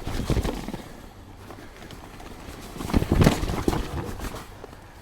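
Mountain bike riding down a rough dirt trail: tyres rolling and the bike rattling over bumps, with clusters of jolts and knocks near the start and again about three seconds in.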